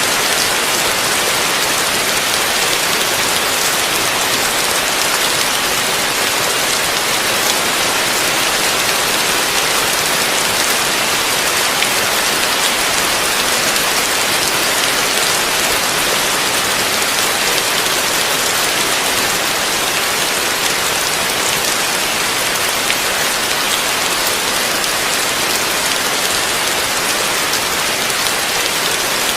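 Heavy rain falling steadily, a dense even hiss of drops with no breaks or thunder.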